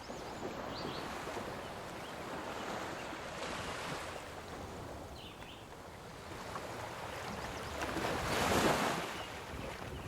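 Wind rushing over the microphone of a moving bicycle: a steady rushing noise that swells briefly near the end.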